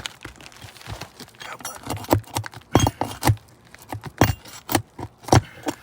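Hand tool knocking, scraping and clinking against asphalt shingles and roofing nails: a string of irregular sharp knocks and light metallic clinks as a brittle shingle's nails are worked loose.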